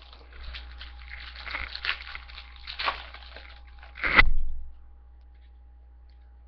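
A trading-card pack's wrapper being torn open and crinkled, a dense crackle with a louder burst just after four seconds in, then it stops.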